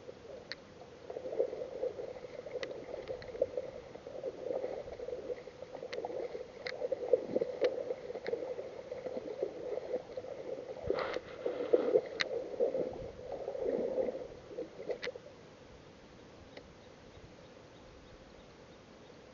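Water sloshing and gurgling in irregular surges, muffled, with a few faint ticks; it stops about fifteen seconds in.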